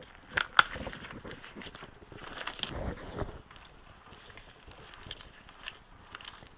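Light metal clicks, then a brief rubbing whirr, as the freshly assembly-lubed gears and shafts of a Yamaha R1 transmission are turned by hand.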